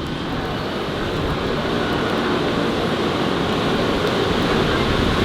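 City street traffic noise, a steady rush of passing vehicles that grows gradually louder.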